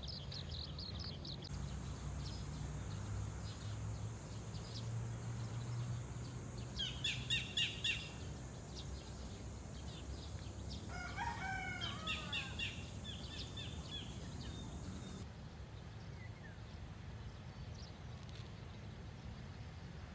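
Dawn birdsong, with a burst of loud repeated chirps about seven seconds in and a rooster crowing briefly about eleven seconds in, over a steady low rumble.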